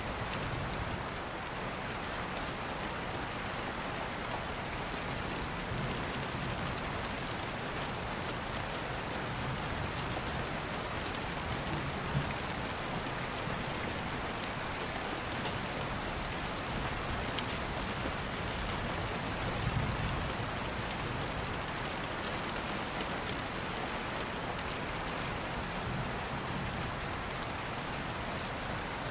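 Steady rain falling, with a few soft low rumbles of distant thunder now and then and a few isolated sharp ticks.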